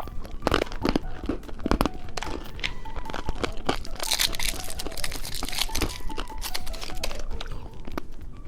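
Candy wrappers crinkling and tearing, with sharp crunching of candy being eaten, over soft background music. The crinkling is densest about halfway through.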